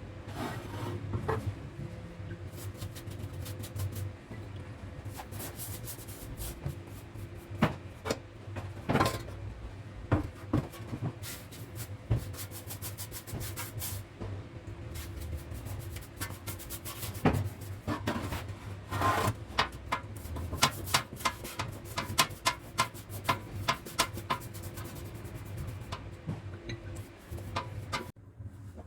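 Rubbing and scraping strokes with scattered clicks and knocks over a steady low hum, with a quicker run of short repeated strokes in the second half.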